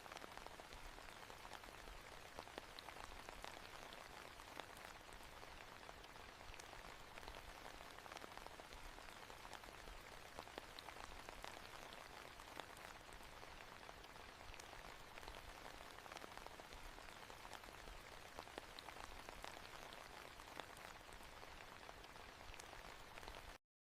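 Steady soft rain falling on a hard surface, with fine drop patter, that cuts off suddenly near the end.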